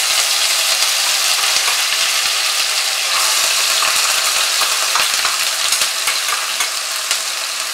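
Onion paste sizzling in hot mustard oil in a kadai, freshly added to a tempering of whole spices: a loud, steady frying sizzle that eases a little near the end.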